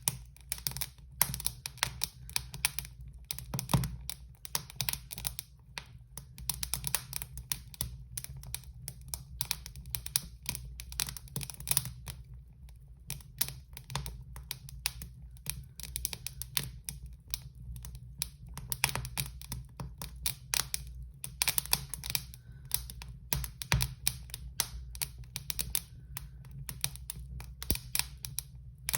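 Fire crackling: dense, irregular snaps and pops over a low steady rumble.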